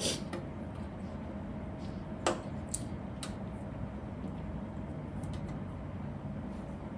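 Plastic Lego pieces clicking as they are handled and pressed together, a few sharp clicks in the first half, the loudest near the start and about two seconds in, over a steady low background hum.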